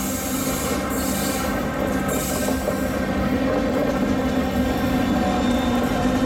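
A heritage steam train running along the line, with steady low tones over a continuous rumble.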